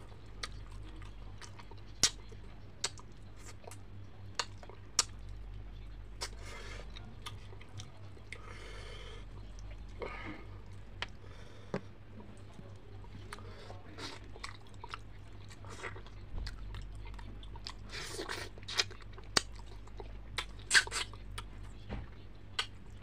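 Close-up eating sounds of fried fish being chewed, with scattered sharp clicks and crunches.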